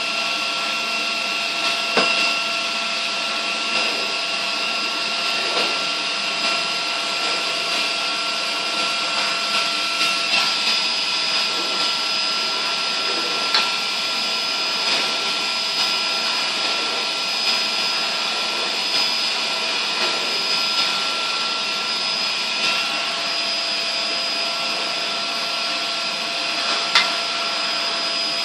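1940s–50s Goblin Triumph cylinder vacuum cleaner running steadily on suction: a very quiet, even motor whine over the rush of air. A few light knocks, about 2, 13 and 27 seconds in.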